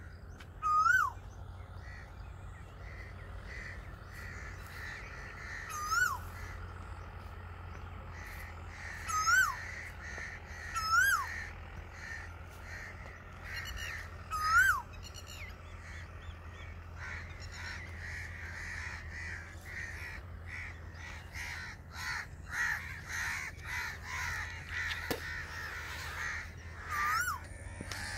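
A bird calling in open farmland: six short, clear calls, each sweeping up and then dropping in pitch, given at uneven gaps a few seconds apart. Smaller birds chirp more busily through the second half.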